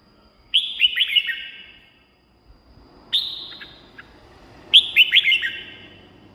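Red-whiskered bulbul singing: two quick phrases of several falling whistled notes, about four seconds apart, with a single note between them.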